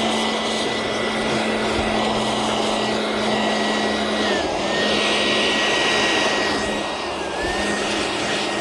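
Bee blower (a battery-powered leaf-style blower) running steadily with a high whine and a low hum, clearing bees off honey frames. Its pitch dips briefly twice, about four and a half and seven seconds in.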